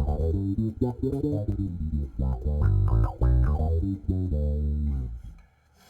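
Electric bass with round-wound strings played through a Mutron/Qtron-style envelope filter pedal in low-pass mode, drive and Q at midway, giving each note an auto-wah tone. A run of notes is played, and the playing stops shortly before the end.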